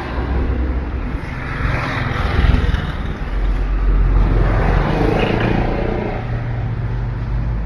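Road traffic: motor vehicles driving past over a steady low engine hum, with one pass swelling about two seconds in and a louder, longer one around four to six seconds in.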